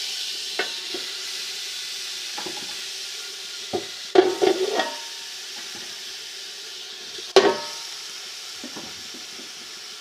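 Beef trotters and bones sizzling in hot ghee in a large pot as they are stirred, with scattered knocks and clatters of the pieces against the pot; the loudest come in a cluster about four seconds in and as one sharp knock just past seven seconds. They are being fried plain, without spices, at the start of making paya.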